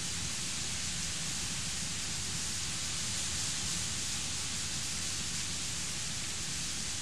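Heavy thunderstorm rain pouring down, a steady, even hiss with no letup.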